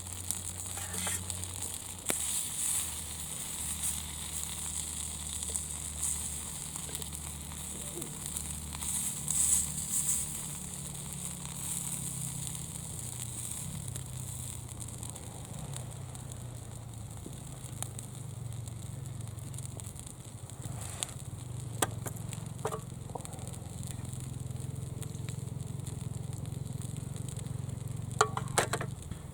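Wood fire burning in a homemade folding fire pit, sizzling and crackling with sharp pops now and then, busiest around ten seconds in and again near the end.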